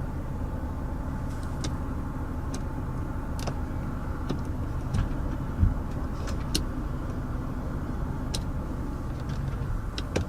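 Mazda 6's engine idling steadily, heard from inside the cabin, with about ten light clicks scattered through it.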